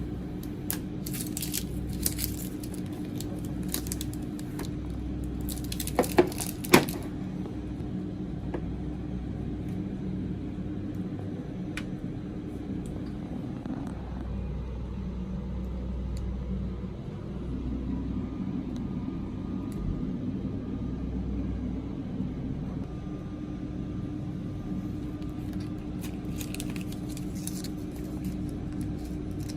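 Snack packaging being handled: scattered crinkles and clicks, with three sharp clicks about six seconds in and more crackling near the end, over a steady low hum.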